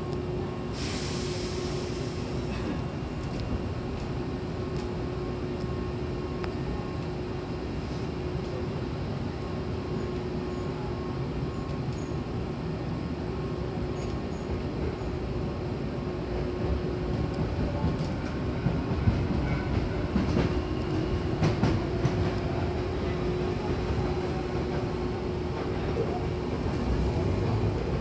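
Hankyu Takarazuka Line commuter train running between stations, heard from inside the car: steady running noise with a held motor hum. A short hiss of air comes about a second in, and the ride grows louder and rougher in the second half, with scattered knocks from the wheels and rails.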